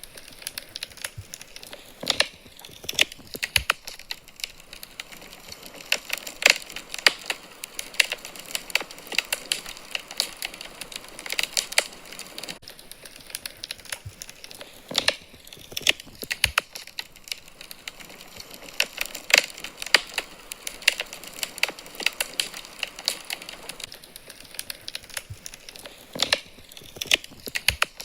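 Wood fire burning in a fireplace, crackling with irregular sharp pops and snaps over a faint steady hiss.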